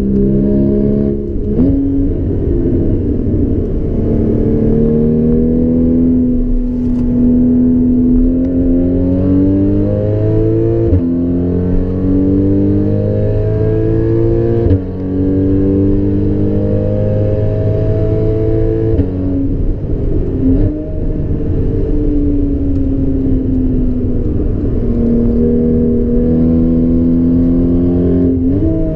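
Porsche Cayman S 3.4-litre flat-six with an aftermarket Borla exhaust, heard from inside the cabin under hard acceleration. Its pitch climbs through the revs and drops sharply at gear upshifts, three times in the middle. In the last third the pitch falls for a few seconds as the engine comes off the throttle, then climbs again.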